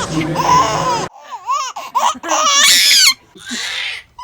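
A baby laughing and squealing in several high-pitched bouts that swoop up and down.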